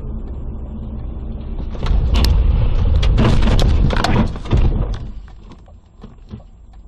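Car on the road with a low rumble, then a collision: a loud run of bangs and knocks from about two seconds in, lasting about three seconds before dying away.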